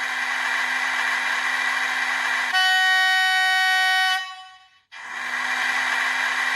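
Hornby TTS sound chip playing Class 37 diesel sounds through a model locomotive's speaker: the cooling fan runs steadily, then about two and a half seconds in the high-note horn blows for under two seconds and fades out. After a brief gap the fan sound comes back.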